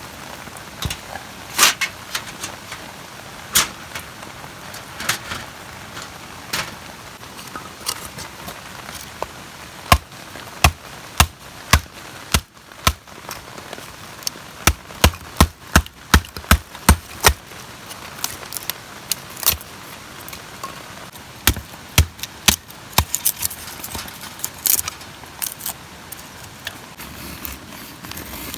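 Steady rain, with a scatter of sharp clicks and knocks over it, including a quick run of about two knocks a second in the middle.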